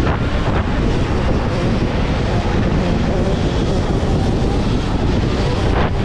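Steady rush of wind and riding noise from a Sur-Ron electric dirt bike under way, loud and even throughout.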